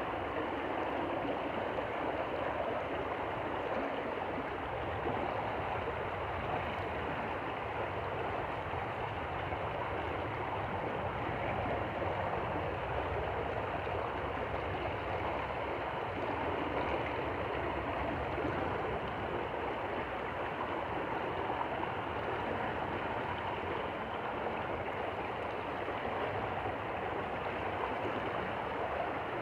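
A stream flowing: an even, unbroken rush of water that stays steady throughout.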